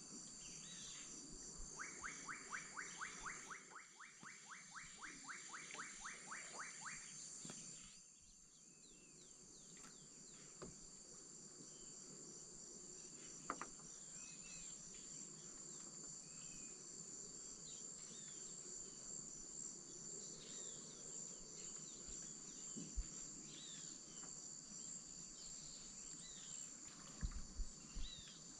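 Amazon wetland insect chorus: a steady high-pitched trilling of crickets and katydids. From about two seconds in, a rapid run of repeated calls lasts around five seconds, then short bird-like chirps come scattered. A few low knocks sound near the end.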